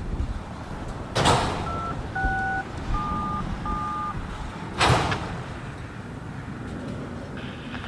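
Railroad radio scanner: a short burst of static, then four touch-tone (DTMF) beeps, each a pair of tones, then another burst of static. A steady low rumble runs underneath.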